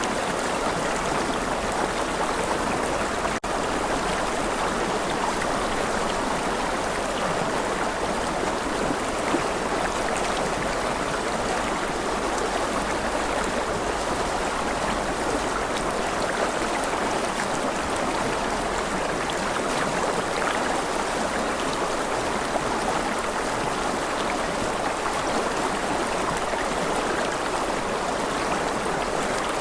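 Steady rushing water, like a stream or heavy rain, an even wash of sound with no change in level, broken only by a momentary drop about three and a half seconds in.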